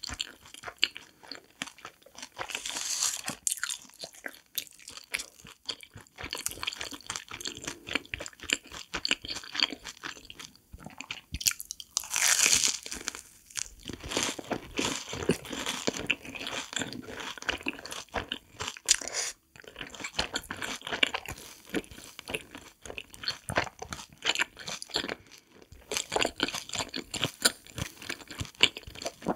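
Close-miked mouth sounds of eating a seasoning-coated fried corn dog: continuous crackly chewing with louder crisp crunching bites about 3 and 12 seconds in, the inside chewy.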